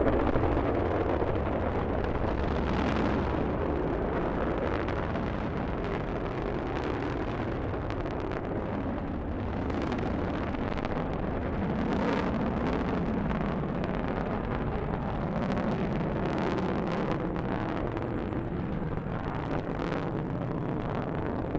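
Delta II rocket climbing away after liftoff: a steady rumbling roar from its engines, with frequent sharp crackles through it.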